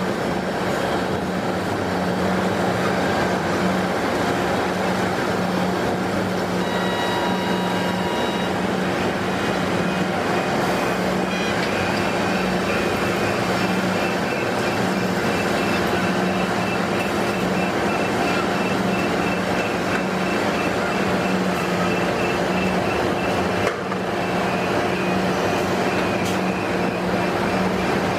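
Heavy construction machinery running steadily: a constant low hum over a dense mechanical rush.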